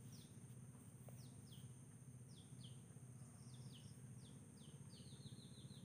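Faint, high, short chirps of a small bird, each falling in pitch, heard a dozen or so times with a quick run of them near the end, over a faint low hum.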